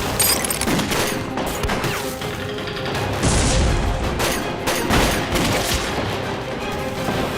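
Battle gunfire: many scattered gunshots going off irregularly, with film score music held underneath.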